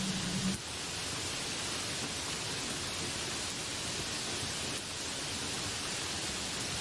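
Heavy rain pouring onto trees and broad banana leaves, a steady dense hiss.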